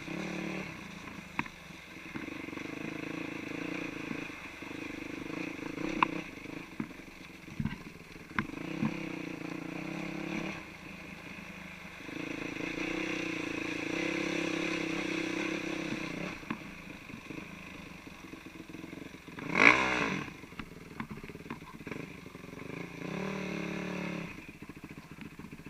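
450cc single-cylinder four-stroke dirt bike engine running, the revs rising and falling in stretches, with scattered knocks and clatter. A single loud, brief burst of sound comes about twenty seconds in.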